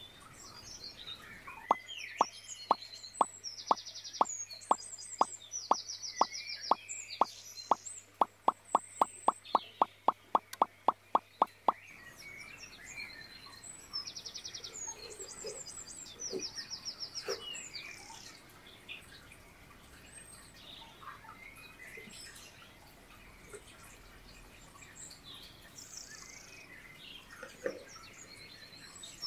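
Birds chirping and trilling throughout, with a run of sharp, evenly spaced plops from about two seconds in. The plops come about two a second, quicken to about four a second, and stop suddenly about twelve seconds in.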